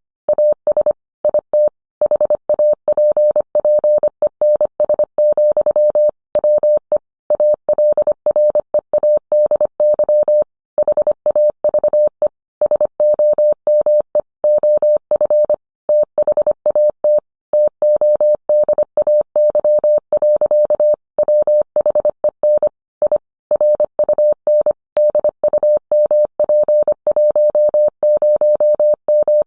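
Morse code sent as a single steady beep tone, keyed on and off in quick short and long pulses (dots and dashes), with brief silent gaps between letters and words.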